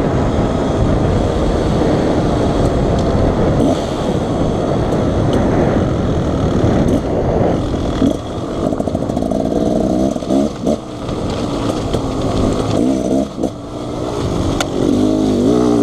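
Two-stroke Beta Xtrainer 300 dirt bike engine running under way on a trail, its pitch rising and falling with the throttle. It eases off briefly a few times past the middle and revs up and down again near the end.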